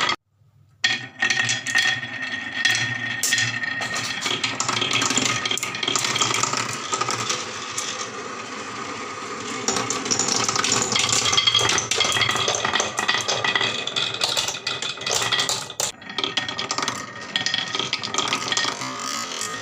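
Marbles rolling and clattering down a HABA wooden marble run: a dense, continuous rattle of clicks and clinks, after a brief silent gap at the very start.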